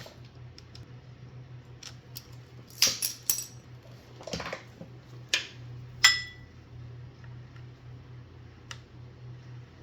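Scattered metallic clicks and clinks of hand tools at work fitting grease zerks into a baler's overrun clutch. One sharper clink about six seconds in rings briefly. A steady low hum runs underneath.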